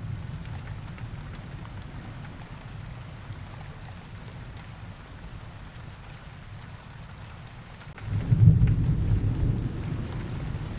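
Rain ambience: steady rain hiss over a low rumble of thunder, with a louder roll of thunder breaking in about eight seconds in.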